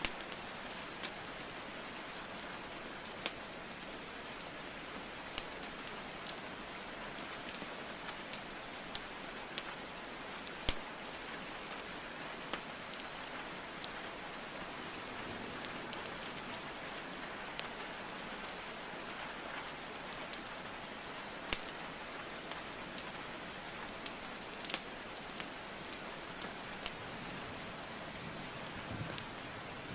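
Steady rain falling, with sharp pops and crackles of burning wood logs in a fireplace scattered through it.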